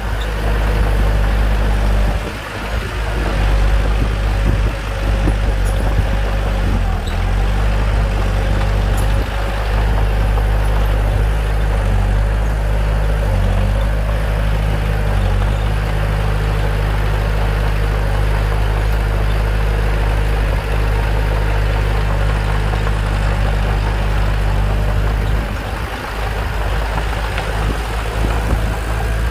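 Bulldozer's diesel engine running steadily with a low, even drone, briefly dropping in loudness about two seconds in and again near the end.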